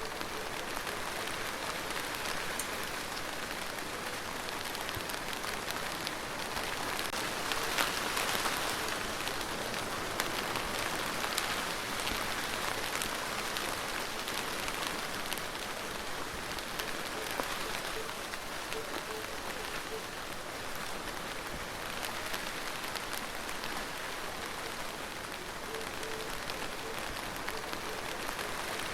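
Steady rain falling, an even hiss with scattered sharp drop ticks, swelling a little louder about a third of the way in.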